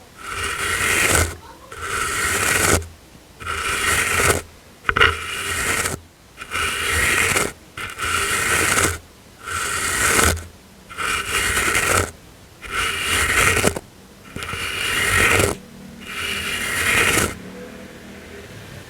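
A soft brush stroked slowly back and forth across the microphone. It makes about a dozen smooth swishes, each about a second long and evenly paced, and they stop near the end.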